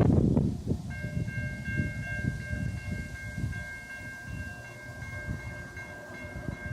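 A CSX freight train rumbling and clattering past, loud right at the start. From about a second in, a locomotive horn is held as a steady high chord nearly to the end.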